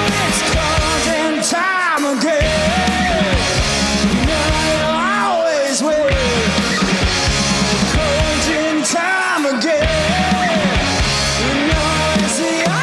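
A rock band playing loudly, with a lead part of notes that swoop up and fall back about every three to four seconds over a full backing of bass and drums.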